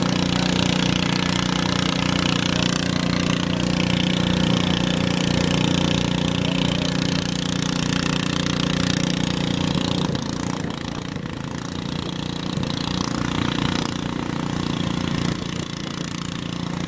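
Garden tractor's small engine running hard and steady under load while pulling a weight sled, its firing pulses fast and even. About two-thirds of the way through the engine note drops and the sound falls off.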